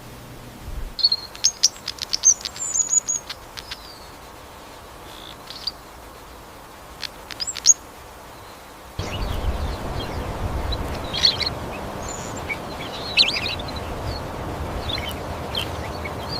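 Small birds chirping: scattered short, high chirps and quick trills. About nine seconds in, a louder rushing noise starts under them.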